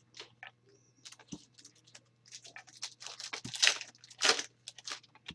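Trading cards and their foil pack wrapper being handled: a run of short crinkles and scrapes, loudest about three and a half and four and a half seconds in.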